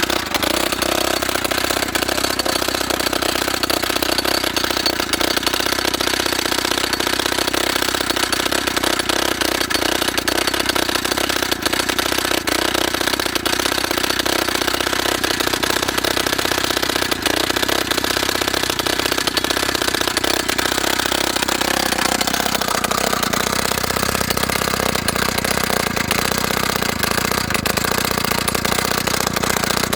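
YN30A petrol rock drill running, its two-stroke engine going steadily under a fast, even hammering. About 22 s in the pitch drops and stays lower.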